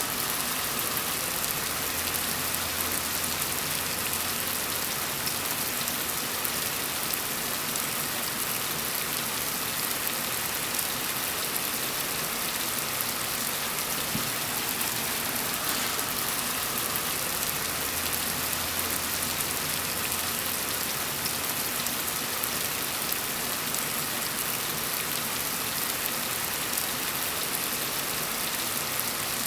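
Steady gentle rain falling on a surface: an even hiss of many small drops with no pauses.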